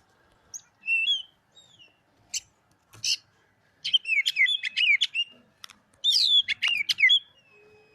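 Oriental magpie-robin (kacer) singing: a few separate high whistled notes, then two quick runs of fast, twisting warbled notes, each about a second long, starting about four and six seconds in.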